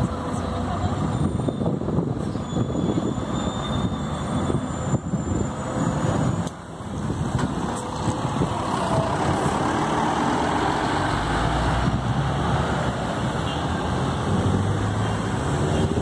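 Scania K360IB coach running and on the move, with its engine and road noise, and a deeper engine rumble building a little past the middle.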